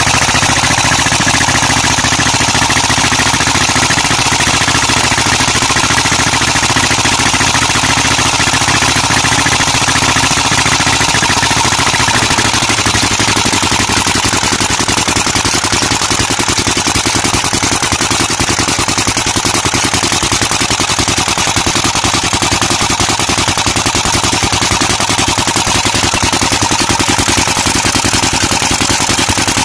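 A 16 HP Peter diesel engine driving a tube well, running steadily with a rapid, even beat. Its low note shifts slightly about twelve seconds in.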